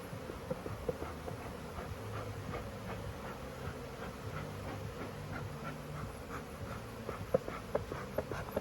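Swarm of honey bees buzzing around an opened hive, a steady low hum. A run of small sharp clicks and taps comes in near the end.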